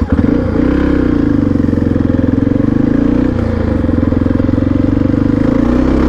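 Honda XR650R's single-cylinder four-stroke engine running as the motorcycle rides along. Its pitch dips and climbs back in the first second, then holds steady.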